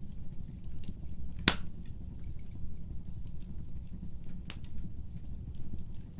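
Fire crackling in a fireplace: a steady low rumble of flames with scattered small crackles. Two sharp pops stand out, a loud one about a second and a half in and a softer one near four and a half seconds.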